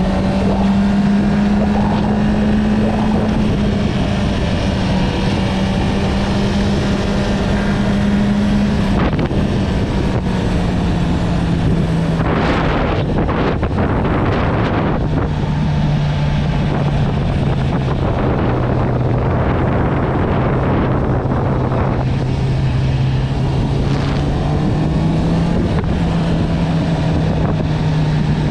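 Honda CB650R's inline-four engine through an Akrapovič exhaust, running steadily under way; its note drops a step about a third of the way in and rises slightly near the end. Wind buffets the microphone in gusts through the middle.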